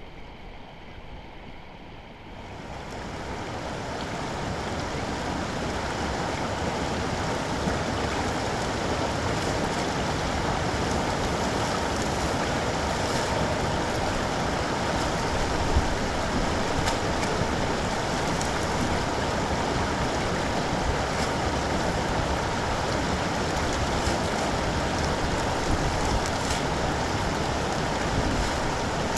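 Rushing water, a steady noisy rush that swells up over the first few seconds and then holds.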